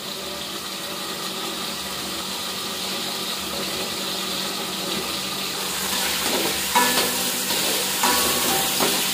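Food sizzling in oil in a lidded wok on a gas stove, a steady hiss that grows louder over the last few seconds. A few metal clinks come near the end as the wok lid is handled.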